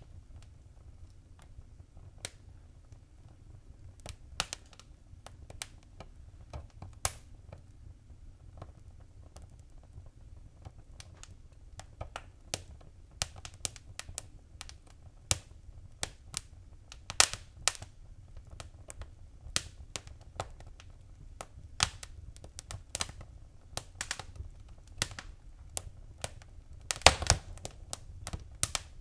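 Wood fire crackling in a fireplace: irregular sharp pops and snaps over a low steady rumble. The pops are sparse at first, grow busier about halfway through, and come in a quick burst near the end.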